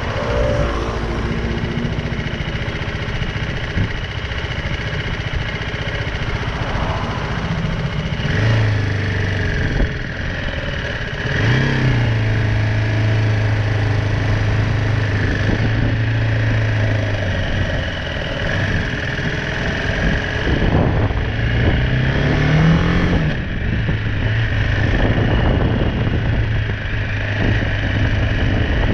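BMW G310R single-cylinder motorcycle engine running under way, its note rising and dropping a few times as the bike speeds up and changes gear.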